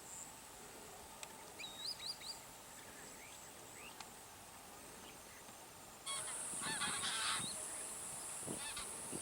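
Birds calling at a wetland: faint, scattered calls at first. About six seconds in, a steady high hiss comes up and a cluster of calls follows.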